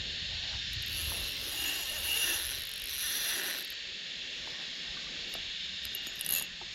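Fishing reel clicking and ratcheting as a hooked bream is played on light line, over a steady high drone.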